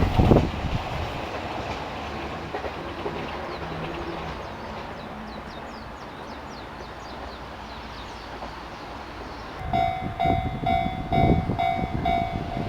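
A train on the Sasebo Line passes and fades away, its rumble dying down over the first few seconds. About ten seconds in, a louder train rumble with low knocks comes back, joined by a steady high ringing tone.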